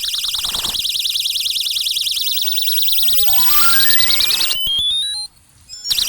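Electronic alarm tones from a solar animal repeller's speaker: a loud, fast warbling siren, joined about three seconds in by a stepped tone that climbs in pitch. The sound cuts off briefly about five seconds in, then the warble starts again.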